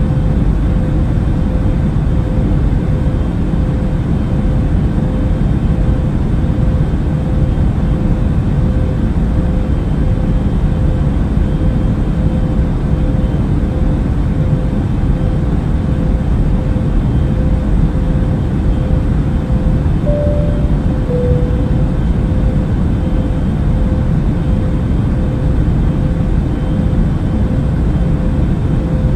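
Steady engine and air noise inside a jet airliner's cabin, a deep even roar with a faint constant hum. About two-thirds of the way through, a soft two-note falling chime sounds once, like a cabin call chime.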